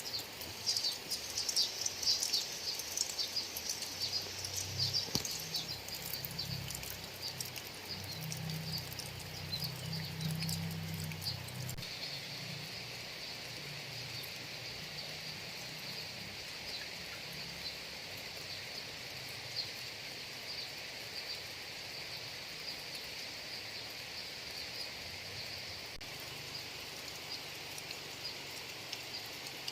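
Steady rain falling, with birds chirping in the first few seconds and a steady high insect drone from about the middle on. A faint low rumble runs from about four to twelve seconds in.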